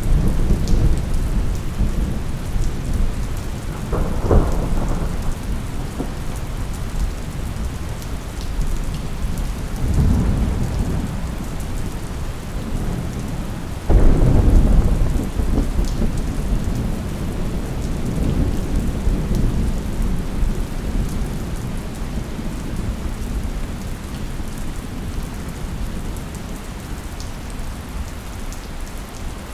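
Thunderstorm: steady rain falling, with rolling thunder rumbling three times, the loudest peal cracking in sharply about halfway through and rolling off slowly.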